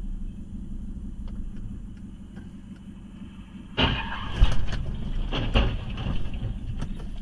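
Steady low rumble of a car on the road, then just past halfway a sudden loud crash with several sharp bangs over the next two seconds, typical of a vehicle collision caught on a dashcam.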